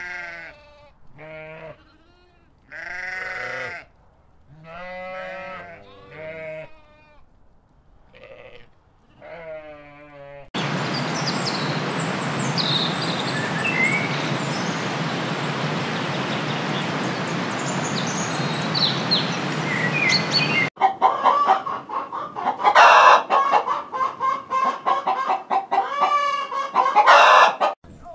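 A sheep bleating several times in short separate calls. About ten seconds in it gives way to a steady hiss with small birds chirping over it. Near the end a flock of chickens clucks and squawks in a dense, rapid run.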